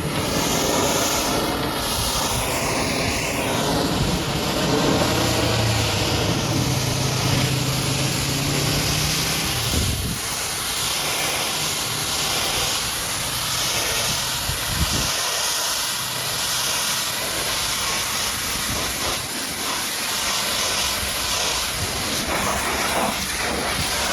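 High-pressure water jet from a pressure washer spraying a muddy truck: a steady loud hiss that rises and falls as the spray moves. A low hum joins in from about five to ten seconds in.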